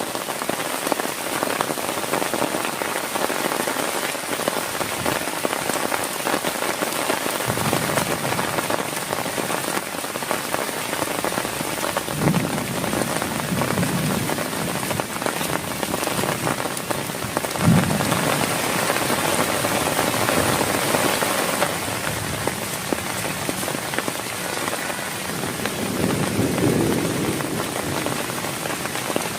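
Heavy rain falling steadily and hard, a dense even patter with a few low swells in it. There is one brief thump about eighteen seconds in.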